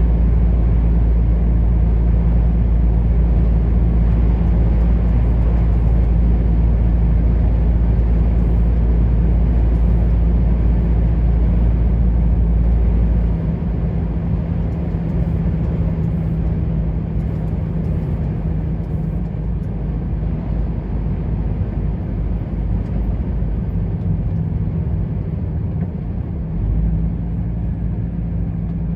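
Truck engine running steadily with road noise while driving. A deep low rumble drops away about halfway through, leaving a lighter steady engine hum.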